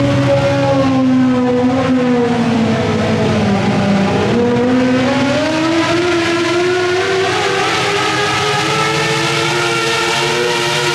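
Competition garden pulling tractor's engine running hard at high revs: its pitch sags for about four seconds as the engine bogs under load, then climbs steadily back up.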